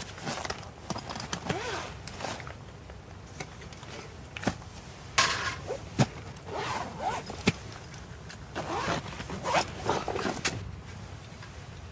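Intermittent handling noises: short rasping scrapes and rustles with a few sharp clicks, coming in clusters with pauses between.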